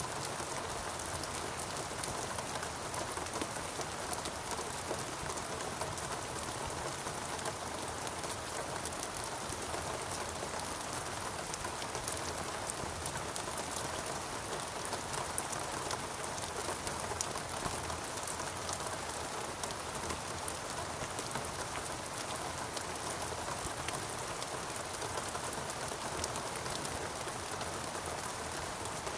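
Steady rainfall in a rainforest, an even hiss of rain with many fine drop ticks, unchanging throughout.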